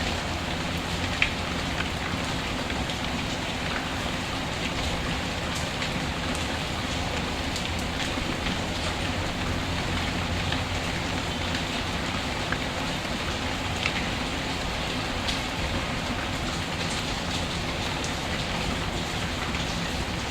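Steady rain falling, with now and then a faint sharp crackle or tick, the sharpest about a second in; a rain-and-fireplace ambience.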